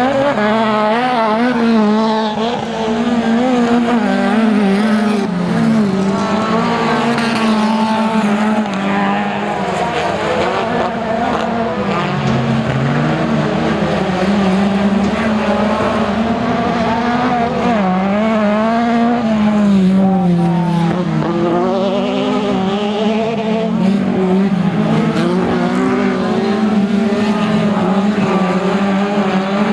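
Race car engines running hard during an autocross heat, revs rising and falling continuously as the cars accelerate and lift through the corners.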